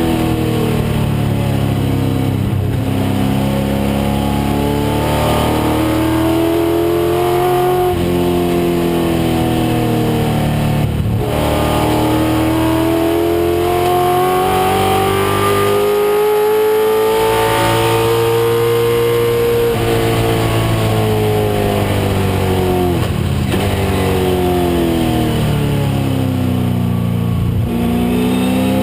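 1996 Ford Mustang race car's engine running hard on track. Its pitch climbs and falls in long sweeps as it accelerates, lifts and shifts, with a few abrupt breaks where it drops back.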